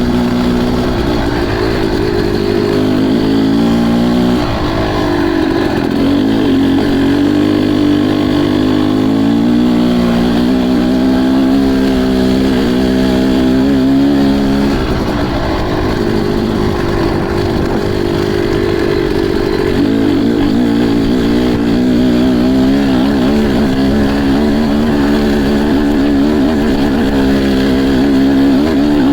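Motocross dirt bike engine running hard under throttle, its note dropping and climbing again several times as the rider rolls off and accelerates.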